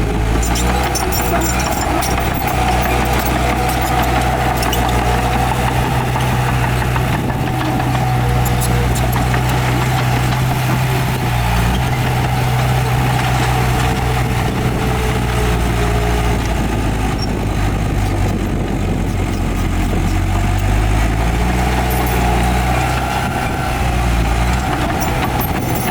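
Heavy diesel engines of earthmoving machinery running steadily with a deep, continuous hum, their pitch shifting slightly a few times as the load changes.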